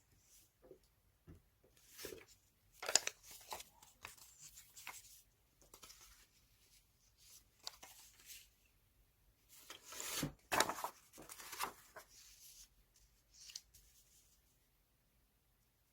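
Magazine paper being handled: short, scratchy rustles of paper that come and go, loudest about three seconds in and again around ten to eleven seconds.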